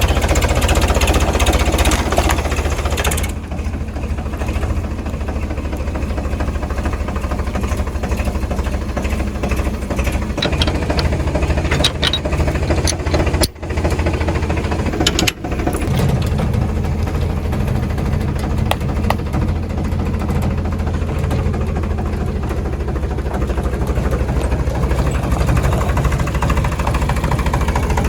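A 2WD farm tractor's diesel engine running steadily under field work, a low, even knocking thrum. Its loudness dips twice briefly about halfway through.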